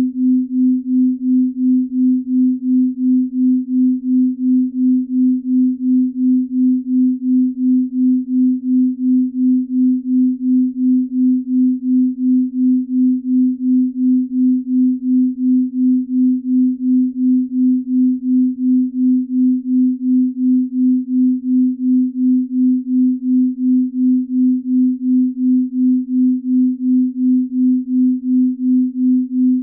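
Binaural beat for deep sleep: a low pure sine tone, its loudness pulsing evenly about twice a second as two slightly different tones beat against each other.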